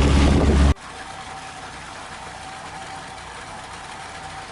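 Sailboat's engine running loud and steady, cut off abruptly under a second in. A much quieter steady hiss with a faint high hum follows.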